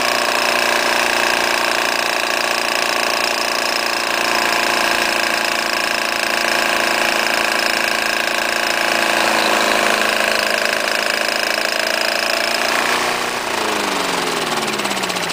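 Briggs & Stratton small engine running steadily with its magneto coil removed, firing on compression heat alone on catalyst-treated fuel. About 13 seconds in it loses speed and winds down, starting to die without ignition.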